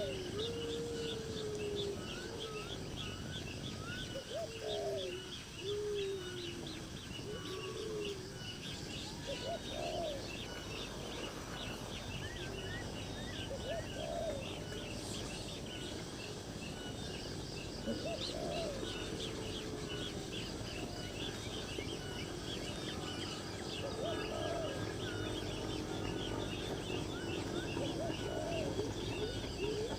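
Birds calling: a constant run of rapid, short, high chirps, with lower rising-and-falling calls every few seconds.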